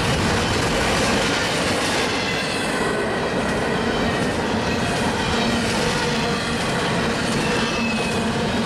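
Freight train cars rolling past at steady speed: a continuous rumble of steel wheels on the rail joints, with faint high wheel squeal, a little stronger near the end.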